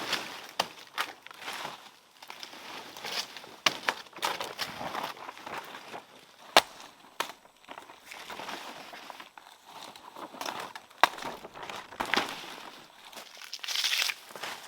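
Irregular rustling and crackling, like dry material being handled or trodden, broken by scattered sharp clicks and knocks; the sharpest come about six and a half seconds in and again about eleven seconds in.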